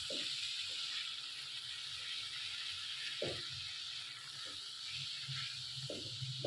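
Chicken pieces sizzling steadily in hot oil in a karahi as they are stirred with a silicone spatula. A few soft knocks of the spatula against the pan come near the start, about 3 seconds in, and near the end.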